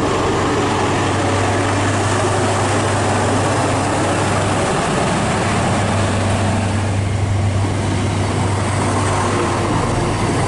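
Diesel trains at a station: a CrossCountry HST with a Class 43 power car pulling out while a Class 170 Turbostar diesel multiple unit runs in, making a steady low engine drone over a broad rumble.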